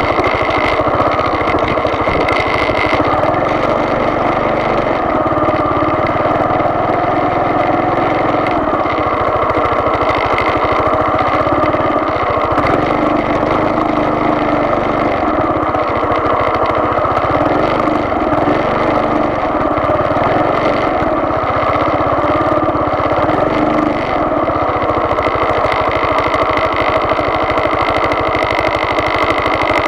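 Steady vehicle engine and road noise while driving, a continuous loud hum with slow changes in the low rumble.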